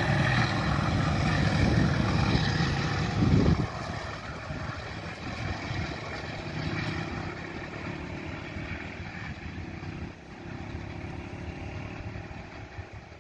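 Passenger train running away down the line, its coaches' wheels rumbling on the rails. Loud for the first three and a half seconds, then it drops suddenly and fades to a distant rumble.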